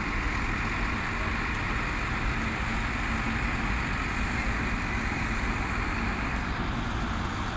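Howo 10-wheel dump truck running, a steady, unbroken engine drone with no change in pitch.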